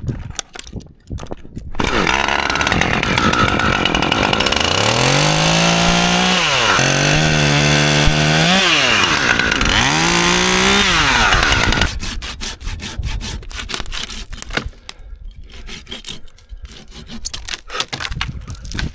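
Chainsaw running for about ten seconds, its pitch dropping and recovering three times as it loads up in a cut, then cutting off; after that, scattered clicks and rustling.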